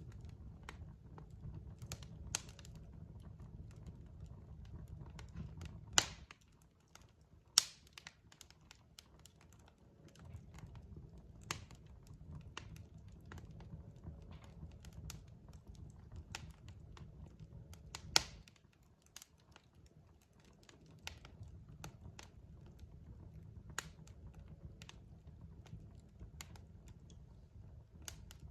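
Burning logs in a fireplace crackling, with irregular sharp pops, the loudest about six, seven and a half and eighteen seconds in. Under them runs a low steady rumble of the fire that drops away briefly twice.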